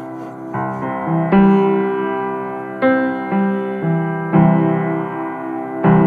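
Slow background piano music: chords struck about every second or so, each ringing on and fading.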